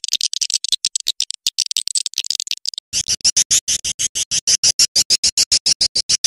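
Recorded swiftlet lure call: rapid high twittering chirps, thin and fast for about three seconds, then a regular run of about eight sharp chirps a second.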